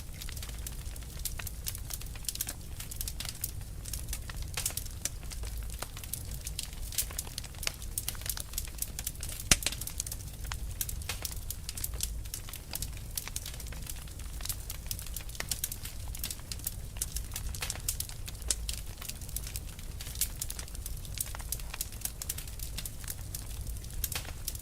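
A fire crackling steadily with quick irregular pops and snaps over a low rumble, and one sharp, louder pop about ten seconds in.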